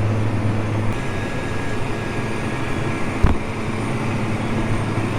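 Tractor engine running steadily under load while pulling a tillage digger, heard from inside the cab as a constant low drone. A single short knock about three seconds in.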